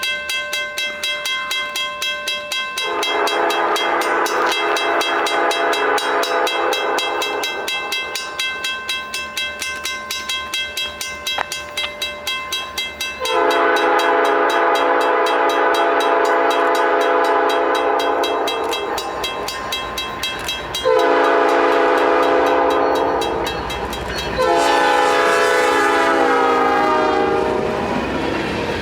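Freight locomotive horn sounding the grade-crossing signal of long, long, short, long, the last blast dropping in pitch as the locomotive passes. Under it a level-crossing warning bell rings in a steady pulse.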